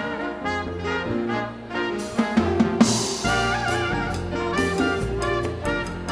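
A live dance band playing a Latin number of the 1930s–40s, with trumpets and trombones carrying the tune over drums and a steady beat.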